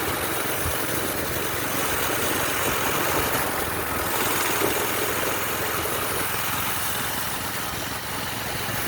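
Minibike's small engine running steadily, its note dropping about three and a half seconds in, with a steady rush of wind and road noise from riding.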